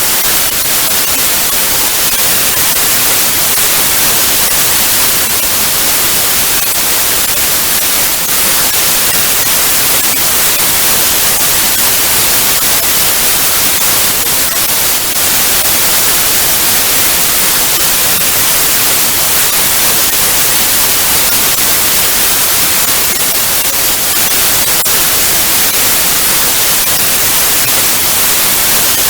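Analogue TV static: a loud, steady hiss of white noise, brightest in the treble, with faint crackles here and there.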